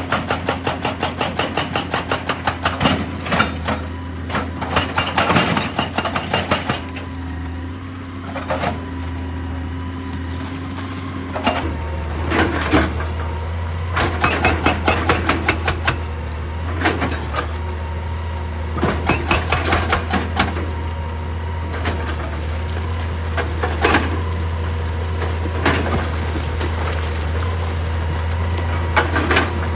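Hydraulic rock breaker on a JCB excavator hammering rock in rapid trains of blows over the steady drone of the excavator's diesel engine. The hammering pauses for a few seconds after the first quarter, leaving only the engine, then resumes in shorter bursts.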